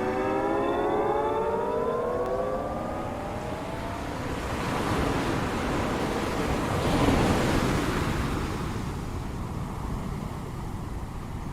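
Ocean waves washing on a shore, a surge swelling and easing about seven seconds in. Over the first few seconds, the last sustained notes of the music slide upward and fade out.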